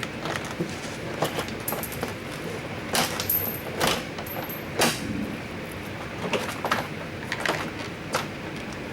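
A car's plastic interior door panel being tugged and worked free of the door: a series of knocks and clicks, the loudest about three, four and five seconds in.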